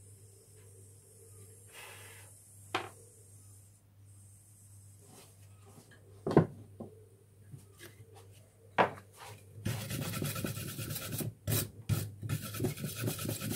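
A few sharp knocks, then from about ten seconds in a brass-coated wire brush scrubbing rapidly back and forth over welded lead to clean it.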